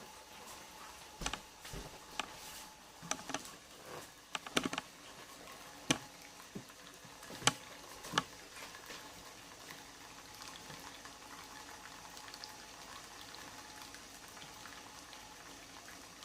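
Pot of fruit boiling on the heat to steam out juice, a faint steady bubbling hiss. Several sharp clicks and knocks come in the first half; after that only the steady boiling remains.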